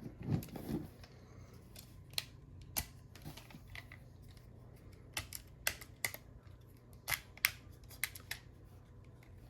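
Plastic parts of a Transformers Legacy United Leader Class Sandstorm figure clicking and snapping as it is handled and folded during transformation: about a dozen sharp, separate clicks at irregular intervals.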